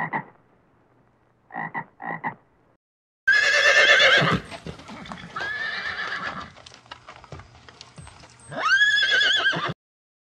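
A frog croaking in short paired calls twice in the first two seconds. After a short gap, a horse neighs three times, the first the loudest and the last ending in a wavering whinny, with hoof clip-clops in between.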